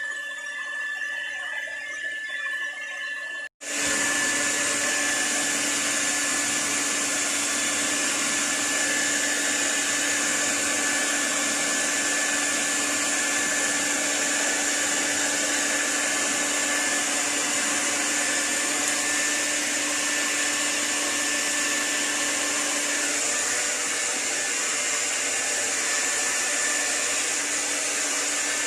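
Handheld hair dryer running with a steady airy rush and a high whine. About three and a half seconds in it cuts out for an instant, then runs louder and steady.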